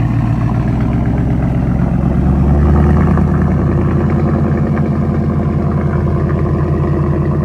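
Ford Coyote 5.0 V8 idling through a custom true-dual exhaust with an H-to-X crossover pipe, no mufflers and no resonators. It runs loud and steady, swelling slightly about two to three seconds in before settling back.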